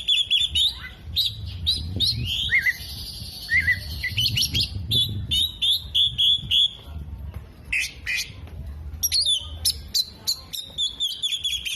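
Oriental magpie-robin singing a fast, varied song of rapid high chirps and short trills, with a few brief pauses.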